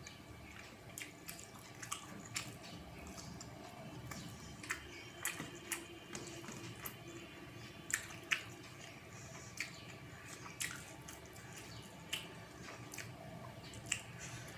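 Eating sounds of rice with moong dal: irregular small wet clicks, squishes and smacks as the food is mixed and chewed, with a few sharper clicks about eight seconds in.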